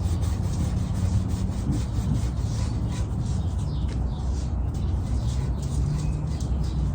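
A cloth rag rubbed back and forth over bare wood, working in oil-based stain in quick scratchy strokes, over a steady low hum.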